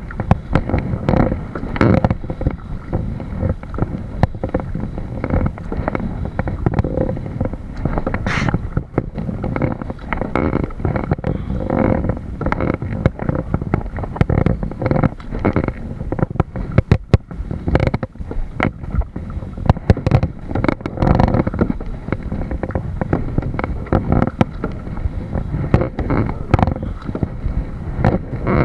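Water sloshing and slapping against a moving kayak's hull, loud and close, with frequent irregular knocks.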